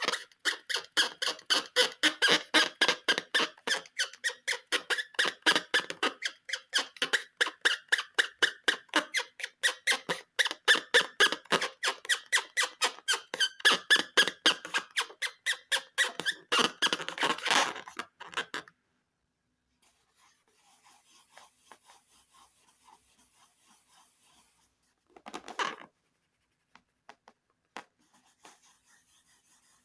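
Rubber balloon squeaking rapidly under rubbing hands, about four or five squeaks a second. The squeaking stops about two-thirds of the way through, leaving faint rubbing and one short loud rub a little later.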